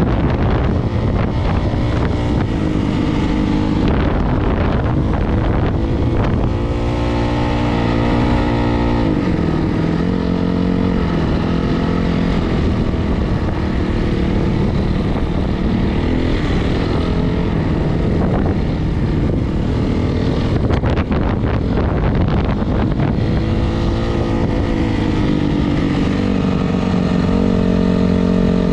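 Single-cylinder four-stroke dirt bike engine running, its pitch rising and falling as the throttle is opened and closed.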